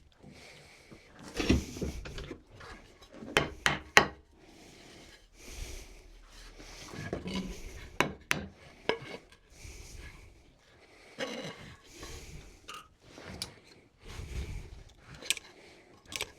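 Hand work on wooden parts at a workbench: scattered sharp knocks and clicks of wood, with rubbing and scraping of wood between them.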